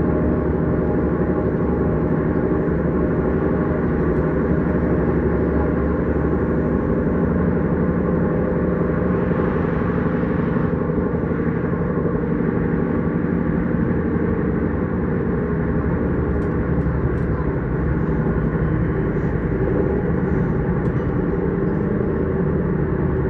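S-Bahn electric train running at steady speed, heard from on board: a continuous rumble with a steady layered hum that holds level throughout.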